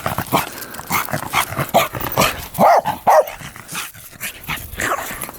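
A dog yipping and whining in short calls, the two loudest close together about three seconds in, among scattered knocks and rustles.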